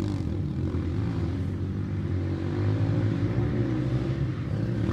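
Motocross dirt bike engine running, its pitch rising and falling as the throttle is worked.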